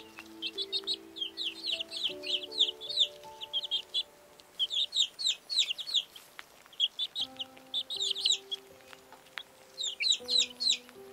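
Young chicks peeping: quick runs of high, downward-sliding cheeps in several bouts with short pauses between. Soft background music with long held notes underneath.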